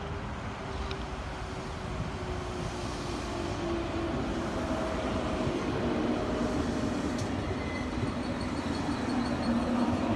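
Electric train coming into the station along the platform, its running rumble growing louder, with a motor whine whose pitch shifts as it moves.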